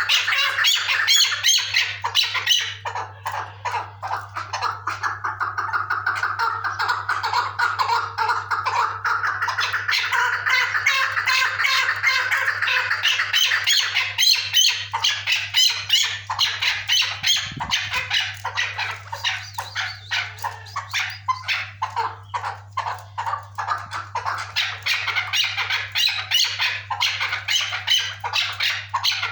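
Chukar partridge (chakor) calling, a fast run of short repeated chuck notes, several a second.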